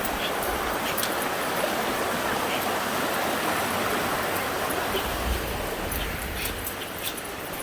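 Steady rushing of flowing water from a stream or small falls, with faint light clicks over it.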